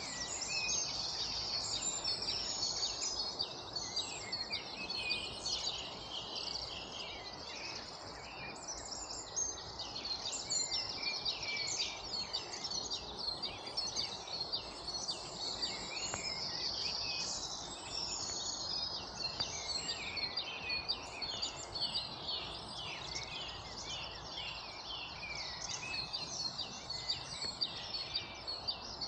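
Dawn chorus: many birds singing and calling at once, a dense tangle of overlapping chirps and trills with no pause, over steady background noise.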